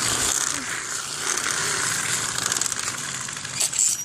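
Mini dirt bike moving at speed: a steady rush of wind on the microphone over a faint low motor hum, easing off near the end.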